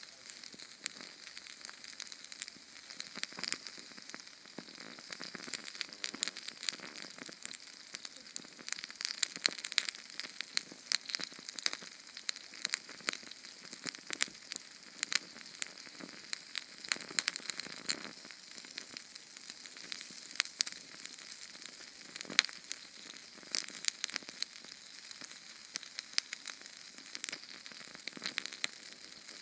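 Small Sterno canned-fuel flame burning and crackling, a steady hiss with dense rapid crackles and pops.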